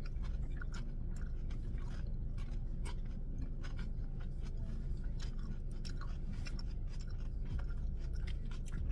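Close-up chewing of food, with irregular wet crunching and smacking clicks, over a steady low hum.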